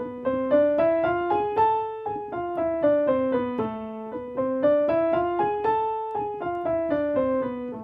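Piano playing the A harmonic minor scale with both hands an octave apart in a syncopated rhythm, up and down twice, ending on a held A.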